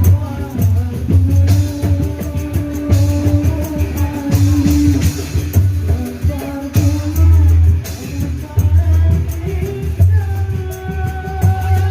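Kecimol band music: heavy, regular drum beats under a sung melody and sustained melody lines from the instruments.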